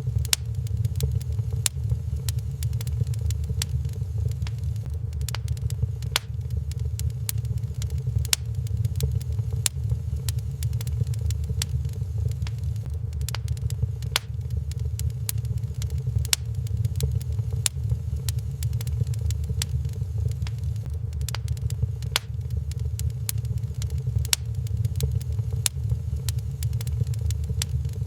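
Wood fire crackling in a fireplace: sharp pops and snaps at irregular intervals over a steady low rumble.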